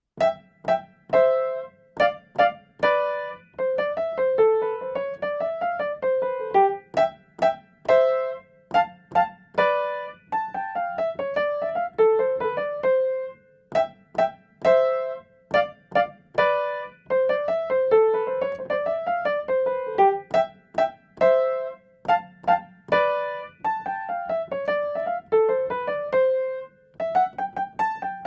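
Electric piano playing a solo instrumental introduction, quick runs of single notes that each die away, with a recurring melodic phrase.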